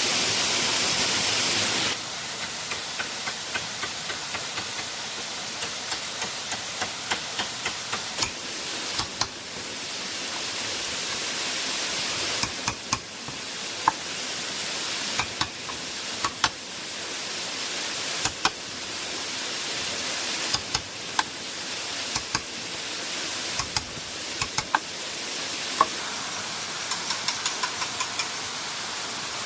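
Steady rushing water noise with many sharp knocks and taps over it, some in quick runs of several strikes, the loudest scattered singly.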